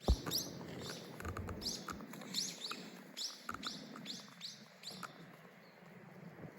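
A bird calling in a quick series of short, high chirps, about three a second, which stop about four and a half seconds in. A low thump sounds at the very start.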